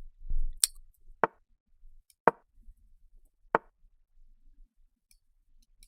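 Online chess piece-move sound effects: four short, sharp wooden clicks, irregularly spaced about a second apart, as moves are played in quick succession in a blitz game.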